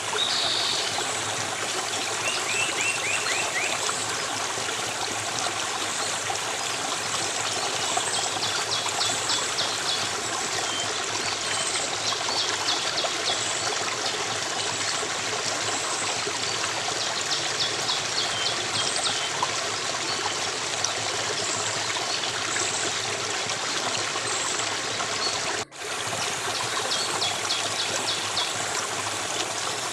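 Stream water running and trickling steadily, with short high rattling trills over it every few seconds. The sound cuts out for an instant near the end.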